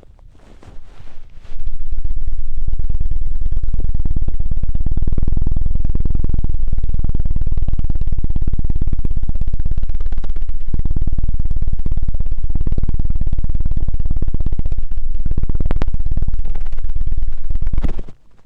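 ASMR 'helicopter' ear-cleaning sound: very fast, even thudding strokes on the microphone, loud and low, like a helicopter's rotor. It starts about a second and a half in and cuts off just before the end.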